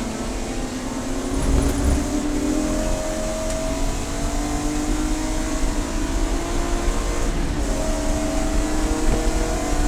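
Race car engine accelerating hard, its pitch climbing steadily, dropping briefly at a gear change about seven and a half seconds in, then climbing again.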